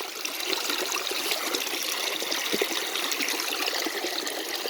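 Small creek water trickling and running steadily.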